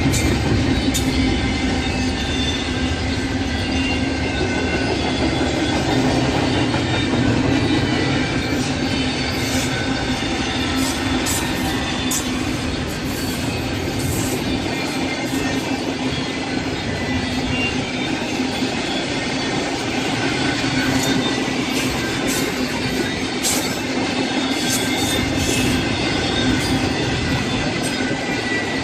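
A train rolling along the rails with a steady rumble of wheels on track. Thin wheel squeal rings above it, and short clicks come here and there.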